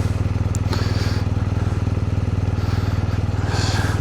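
Motorcycle engine idling steadily with an even, fast pulse while it warms up.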